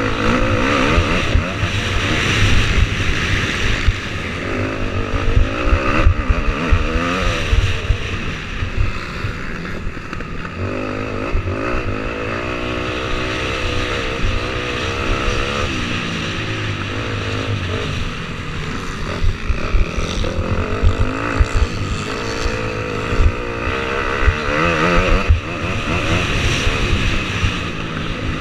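Motocross bike engine at racing pace, revving up and dropping back over and over through gear changes and throttle cuts.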